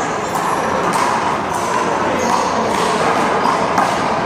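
A rubber handball being struck and bouncing during play, giving a string of about six sharp smacks over four seconds against a steady background hubbub.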